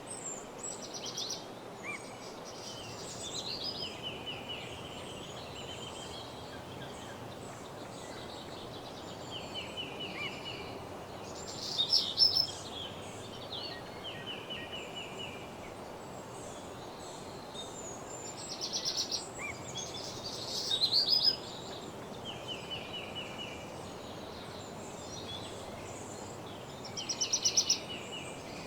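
Woodland songbirds singing, with short trilled and whistled phrases repeating every few seconds over a steady background hiss.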